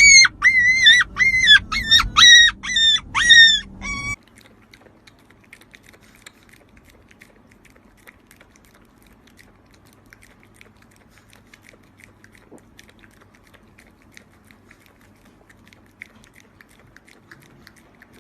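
An animal giving a rapid run of high-pitched yelping calls, about two or three a second, that cuts off suddenly about four seconds in; after that only faint low rustling and light clicks.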